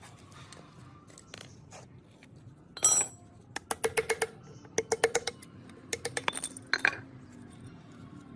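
Metal parts clinking against each other: one loud ringing clink about three seconds in, then several runs of quick, sharp clicks.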